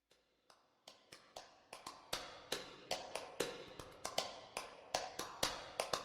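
A run of sharp taps, about two or three a second, fading in from faint and growing steadily louder, leading into an intro.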